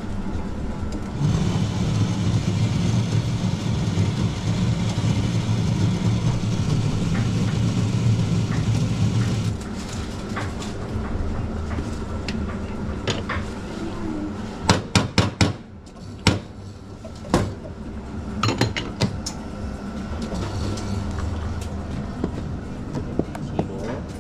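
Espresso-bar equipment running with a steady hum and hiss for about eight seconds, then a quick run of sharp knocks and clacks from handling coffee gear.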